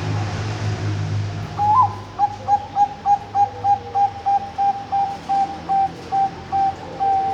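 Bangkok zebra dove (perkutut) cooing: a rising opening note about a second and a half in, then a quick even run of about sixteen short coos, about three a second, ending in a longer held note. A steady low hum runs underneath.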